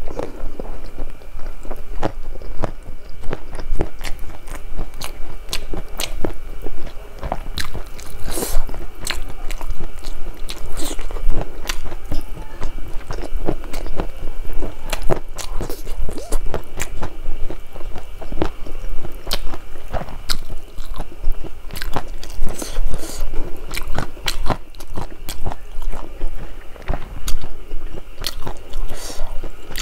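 Close-miked eating: a person chewing and crunching mouthfuls of food, with many small sharp crunches throughout.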